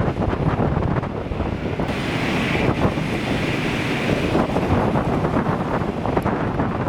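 Strong wind buffeting the microphone, a heavy, uneven rumble. A higher hiss rises in the middle for about two seconds, then fades.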